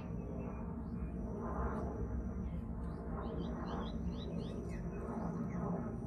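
Small birds chirping: scattered short high chirps, with a quick run of them about three seconds in, over a steady thin high tone that breaks off briefly near the start and middle, and a low rumbling background.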